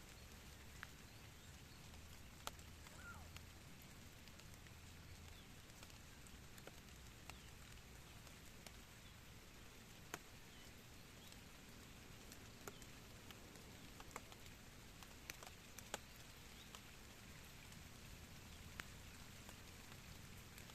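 Near silence: faint background hiss and low hum, broken by scattered faint clicks.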